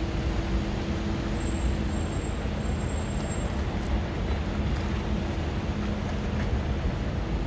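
Steady city street traffic noise: a constant low rumble of passing and idling vehicles, with a steady low engine hum.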